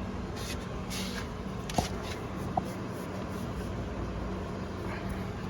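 A 2004 Ford Mondeo's crankshaft damper pulley is being turned by hand, showing its outer ring slipping on the failed rubber at its centre. It gives light scrapes and two sharp clicks a little under a second apart, about two seconds in, over a steady low hum.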